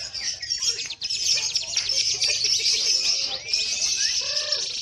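Contest lovebirds singing in long, unbroken rapid chattering trills, the 'ngekek' song that perform-class lovebirds are judged on, with a few short gliding notes near the end.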